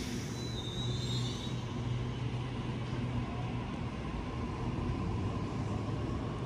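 Double-deck electric suburban train moving along the far platform: a steady low hum from its motors and rolling wheels.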